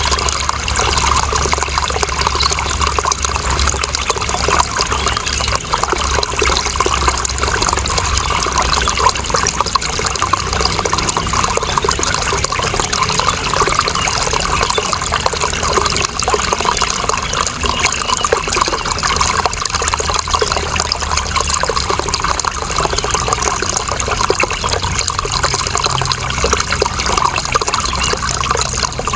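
Running water splashing and trickling steadily, an unbroken bright rush of water with no pauses or changes.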